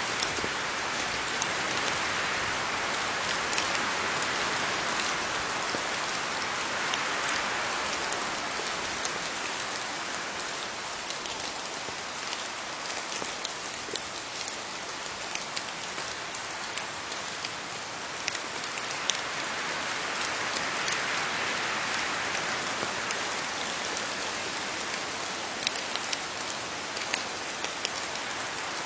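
Steady rain falling on leaves, a continuous patter with many individual drop taps, swelling and easing gently.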